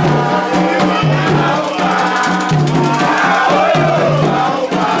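A group singing a Candomblé chant over drums, with a rattle shaking a fast, steady rhythm.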